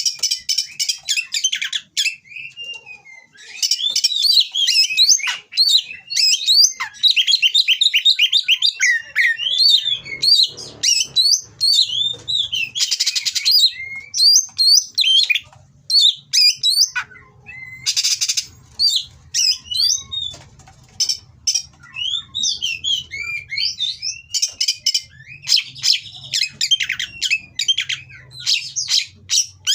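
Oriental magpie-robin singing a fast, varied song of chirps and whistled slurs, broken by short pauses and a few harsh, rasping notes.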